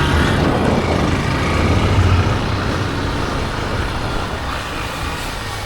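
Motor vehicle engine running close by with a low rumble, loudest in the first two seconds, then slowly fading as it moves away, over general street noise.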